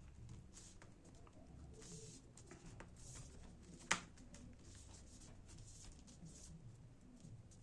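Faint rustling and scraping of hands working a replacement keyboard into a laptop, with one sharp click about four seconds in.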